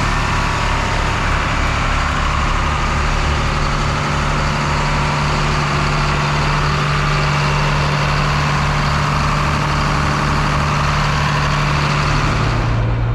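Heavy diesel engine of farm harvest equipment running at a steady speed, with a wide mechanical rush above the engine note. About twelve and a half seconds in, the engine note drops lower as it throttles down and the rush cuts off.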